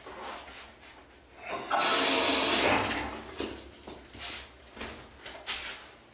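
Toilet flushing: a rush of water starts about a second and a half in, is loudest for about a second, then trails off.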